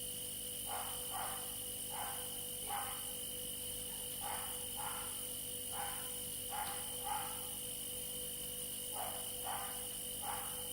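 Faint animal calls, short and mostly in pairs, repeating every second or so, over a steady electrical hum with a high whine.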